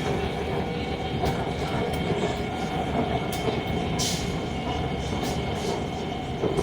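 Orange Line metro train running, heard from inside the carriage: a steady rumble with a faint constant whine and a few short clicks.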